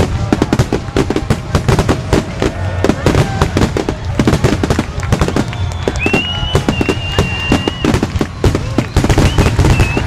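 Fireworks going off in a rapid, dense barrage of bangs and crackles, several a second. A high steady whistle sounds for about two seconds past the middle.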